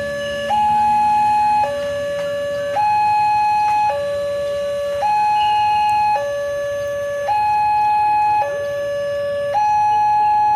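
Two-tone electronic warning siren alternating between a low note and a higher, louder note, each held about a second, in a steady even cycle.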